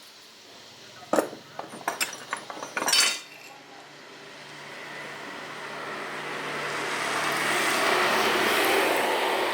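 A quick run of metallic clinks and knocks, like hand tools or metal parts being handled, then a steady mechanical noise that swells over several seconds and starts to fade near the end, like a passing vehicle.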